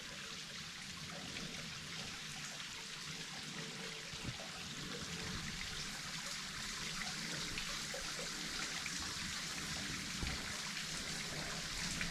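Small woodland waterfall: water trickling and splashing over the falls in a steady, even rush that grows slightly louder over the span.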